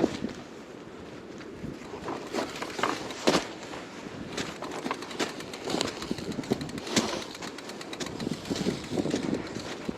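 Fat bike tires crunching through snow, with irregular crackles over a steady rush of wind.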